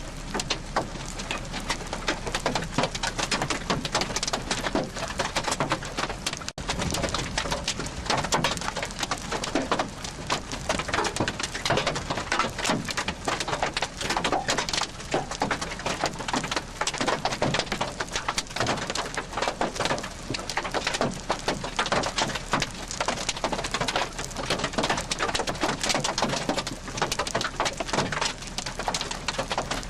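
Heavy rain striking a hard surface: a dense, continuous stream of drop impacts at an even level, with a brief dropout in the recording about six and a half seconds in.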